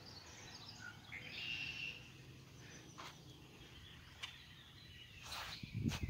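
Faint high bird chirps and twitters, busiest in the first two seconds, with a couple of small clicks and a short burst of noise near the end.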